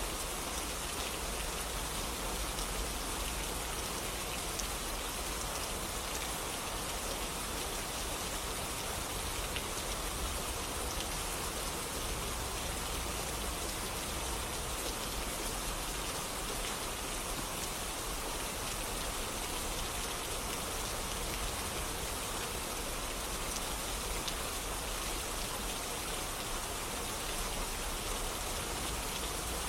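Steady rain falling on surfaces, an even hiss with faint scattered drop ticks and a low rumble underneath.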